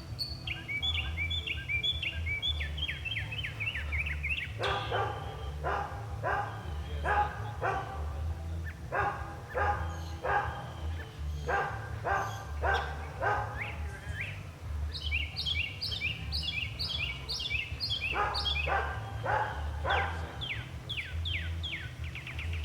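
Northern mockingbird singing: a run of varied phrases, each repeated several times before it switches to the next. The middle stretch is a series of harsh, scratchy repeated notes; it opens and ends with higher, clearer chirps.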